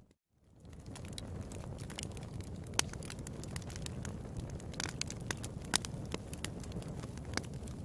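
Wood fire burning in a fireplace, a steady low rumble with irregular sharp crackles and pops. The sound cuts out for a moment at the very start and fades back in.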